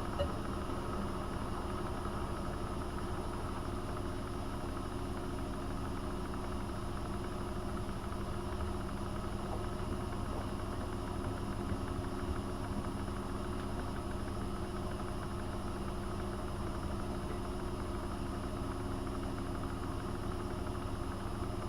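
AEG Öko-Lavamat 72520 washing machine running with a steady, even motor hum and low rumble.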